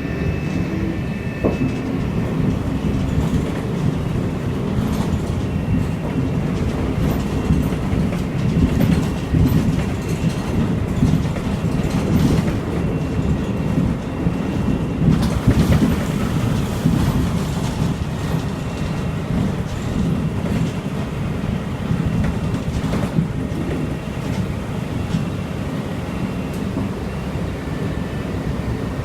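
Storm runoff rushing through a flooded street during heavy rain, a steady low rushing noise that swells and eases a little.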